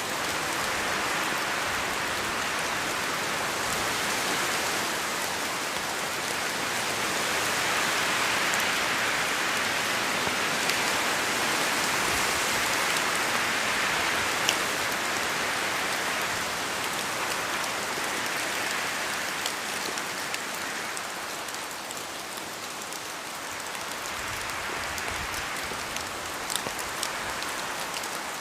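Steady rain falling in a forest, a dense even patter that swells and eases gently, with scattered sharp ticks of single drops landing close by.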